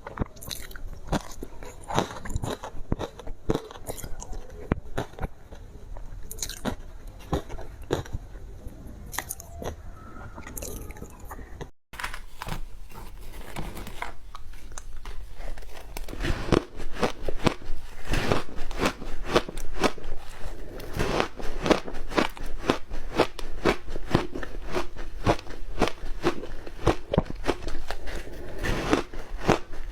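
Close-up crunching of matcha ice being bitten and chewed, many sharp crunches in quick succession. After a brief break about twelve seconds in, the crunches come louder and denser.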